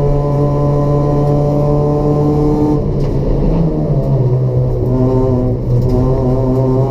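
Race-built Toyota Etios's 1.5-litre petrol four-cylinder engine with a free-flow exhaust, running at a steady drone under load; about three seconds in its pitch drops and then holds steady at the lower note.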